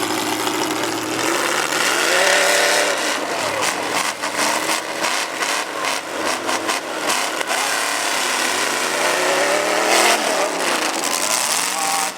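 Demolition derby truck engines revving up and down repeatedly, with several sharp bangs about midway and again near the end.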